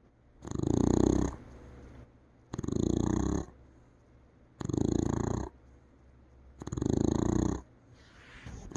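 Beagle snoring in its sleep: four loud, snorting snores about two seconds apart, each just under a second long.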